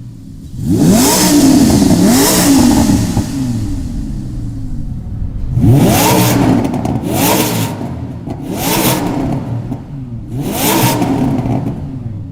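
Lamborghini Huracan LP610's V10 engine through an iPE aftermarket exhaust, revved six times: each rev climbs quickly in pitch and falls away, two in the first few seconds and four more in the second half.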